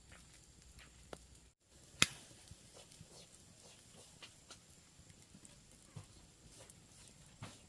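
Wood cooking fire crackling, with scattered small pops and one sharp loud snap about two seconds in.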